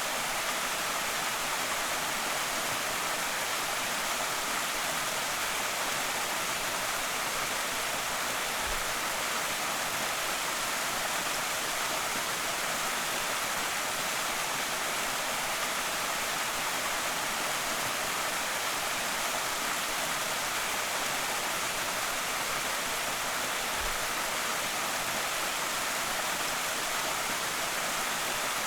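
Creek waterfall: water spilling and splashing in a steady, unbroken rush.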